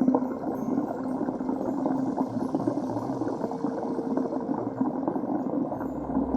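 Muffled gurgling and churning of water heard by a camera held underwater, steady throughout, with a deep hum coming in near the end.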